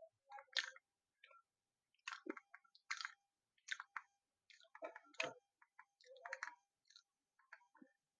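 Light, irregular clicks and taps of a plastic feature phone being handled and reassembled.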